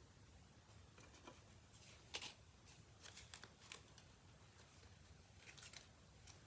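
Faint rustling and light clicks of paper die-cut shapes being handled, with one sharper tap about two seconds in.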